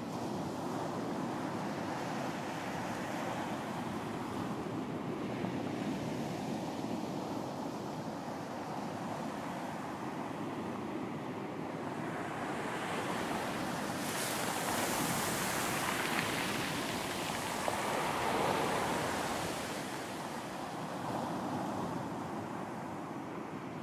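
Ocean surf washing onto a beach in a steady hiss, with a larger wave breaking and washing up about halfway through, its hiss rising and then fading.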